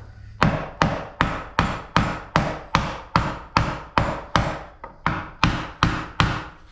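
A hammer driving nails into wooden beehive parts, in a steady run of sharp strikes at about two and a half a second, with a short break a little before the end.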